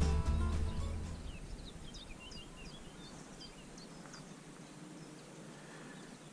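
Background music fades out in the first second, then small birds chirping: a string of short, quick, high calls over faint outdoor background noise.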